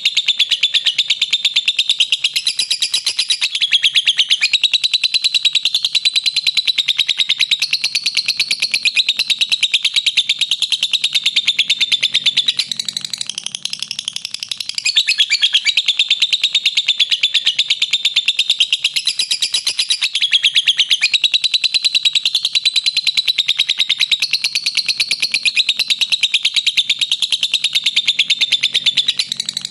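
Lovebird ngekek: a long, very rapid, high-pitched chattering trill that runs on without pause. It eases off and softens briefly about twelve seconds in, then resumes at full strength.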